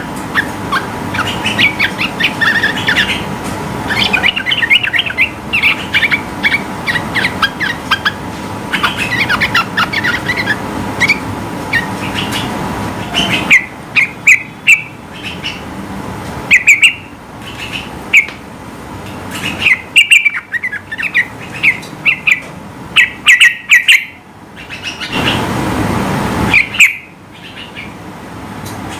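Yellow-vented bulbul singing loud, bubbly chirping phrases: a dense, rapid run of notes at first, then short separate bursts of song. A brief rush of noise comes in about three quarters of the way through.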